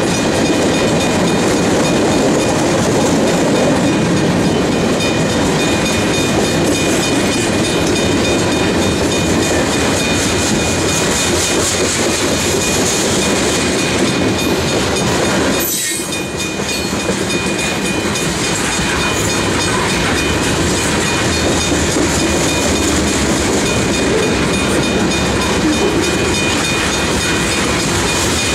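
Heavily loaded freight cars (tank cars and covered hoppers) rolling past at close range: a steady loud rumble and clatter of steel wheels over the rail joints, with a faint steady high-pitched tone over it.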